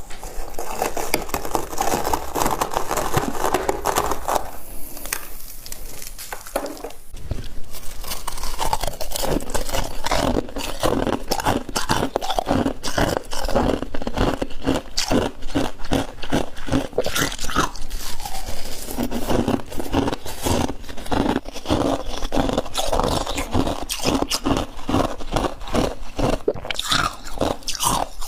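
A person biting and chewing crunchy chunks of ice close to the microphone, a dense run of rapid crunches one after another.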